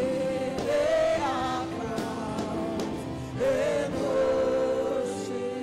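Gospel worship singing: a lead voice and congregation holding sustained notes over keyboard accompaniment.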